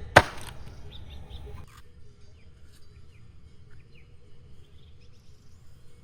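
A single sharp knock with a short ring just after the start, then faint short bird chirps over a quiet background.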